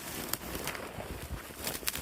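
Footsteps crunching through brush, with twigs and dry growth crackling underfoot.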